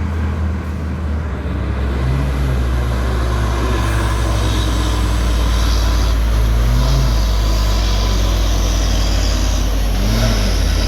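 Heavy truck engine running hard, slowly growing louder, with a few brief swells in pitch as it revs.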